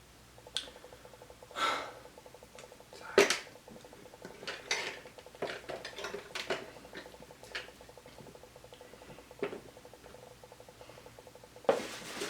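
Light clinks and clatters of dishes and utensils, a dozen or so scattered knocks with the sharpest about three seconds in, over a faint steady electrical buzz.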